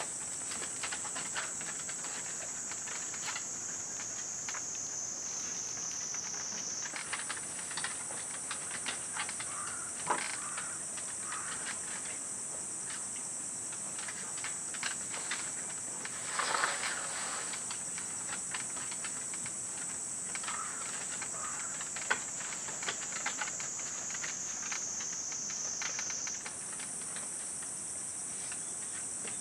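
A steady high-pitched whine that slowly sinks in pitch and snaps back up, about 7 seconds in and again near the end, with scattered light clicks and taps over it.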